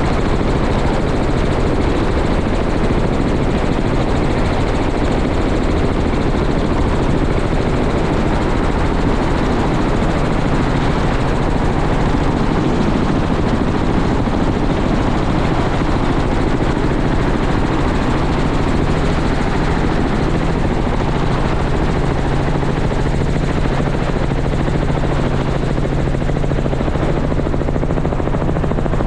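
Helicopter running steadily: an even noise over a steady low hum, with no change in pitch or loudness.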